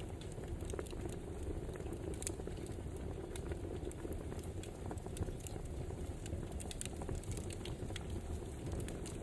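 Wood fire burning, with frequent irregular crackles and small pops over a steady low rumble.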